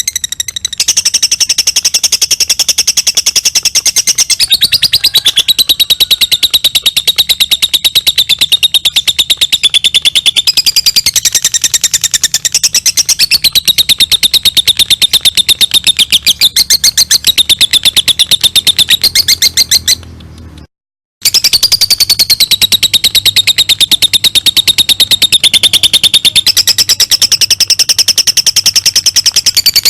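Lovebird singing its 'ngekek' song: a long, very fast chattering trill of rapidly repeated high notes whose pitch shifts up and down, breaking off briefly about twenty seconds in and then resuming.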